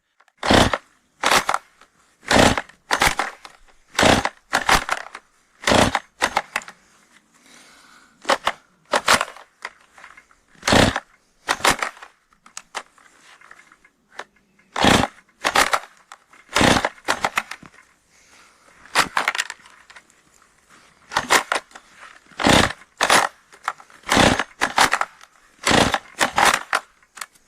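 Husqvarna 135 two-stroke chainsaw being pull-started again and again: a short rasp of the recoil starter cord about once a second, with brief pauses. The engine does not catch after having just died, and the owner suspects the starter.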